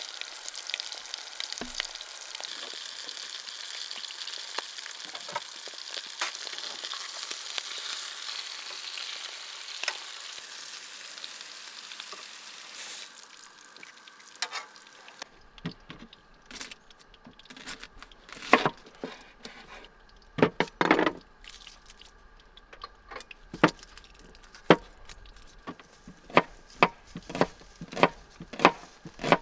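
Salmon fillets sizzling and frying in a pan, a steady hiss that fades out about thirteen seconds in. Then come scattered sharp knocks and a run of quick, regular taps, about two a second, near the end.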